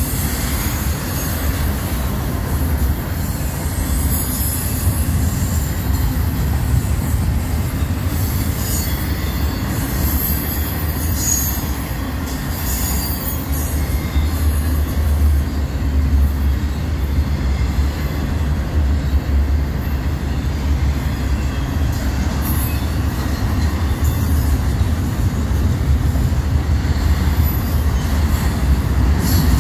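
Double-stack intermodal freight train's loaded well cars rolling past close by: a steady loud rumble of steel wheels on the rails.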